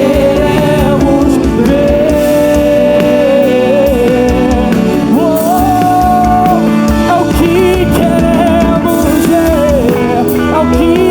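Live gospel worship band with drum kit playing, and a singer holding long, wavering notes over it.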